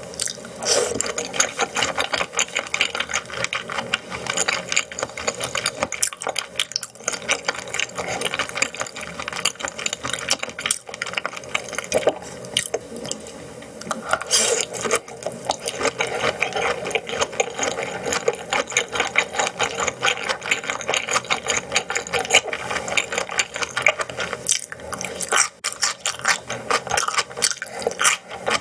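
Close-miked chewing of raw yellowtail sashimi: a dense, steady run of small wet clicks and squishes from the mouth.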